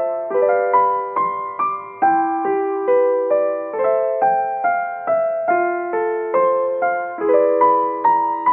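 Background piano music: a slow, gentle melody of single struck notes, about two to three a second, each ringing and fading.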